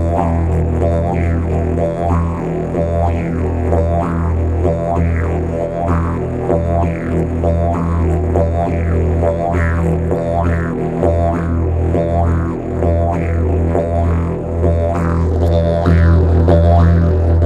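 Didgeridoo playing a low drone in a rhythmic pattern. Its overtones sweep up and down about once a second, and the bass breaks off briefly again and again.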